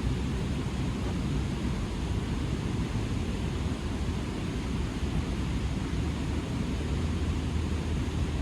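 Steady rushing of creek water, a continuous noise heaviest in the low end.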